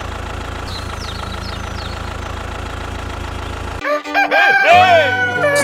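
A tractor-type engine runs at a steady idle for almost four seconds, then cuts off abruptly and a rooster crows loudly.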